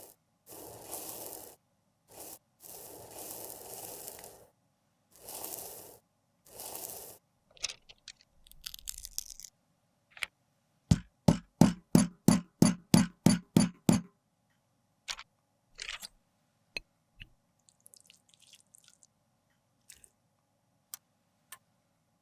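Close-up scraping and crunching of makeup being worked by hand. It starts as several scraping passes of about a second each, then about a dozen sharp crunching taps in quick succession, roughly four a second, then a few scattered light clicks.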